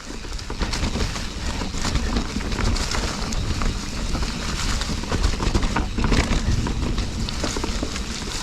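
Full-suspension Specialized Stumpjumper FSR mountain bike riding over rocky singletrack: a steady rumble of tyres on dirt and rock with many small clicks and rattles from the bike.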